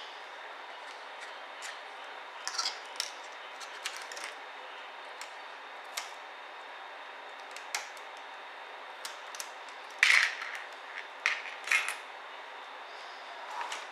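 Light clicks and taps of plastic and small metal parts being handled during disassembly of a ThinkPad T60p laptop, scattered irregularly, with a louder cluster of clacks about ten to twelve seconds in.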